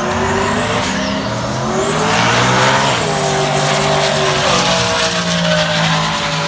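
Drag car's engine running hard as it does a burnout and launches down the drag strip. Its pitch shifts in steps, and a high whine rises about two seconds in and then holds.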